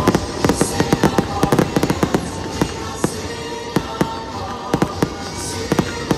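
Fireworks going off in rapid, irregular succession: a dense run of sharp bangs and crackling pops, several a second, over a steady hiss.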